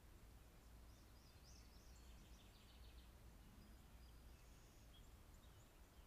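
Faint bird chirps and short trills, several in the first half and a couple more near the end, over a low steady hum.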